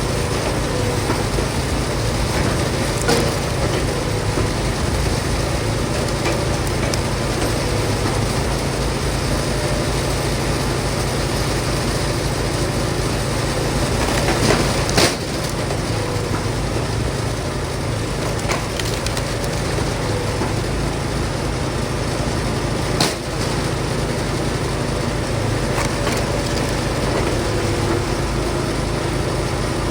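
Allwood Musclewood hydraulic log splitter's engine running steadily while cherry logs are split. Sharp cracks and knocks of splitting wood come about 3, 15 and 23 seconds in.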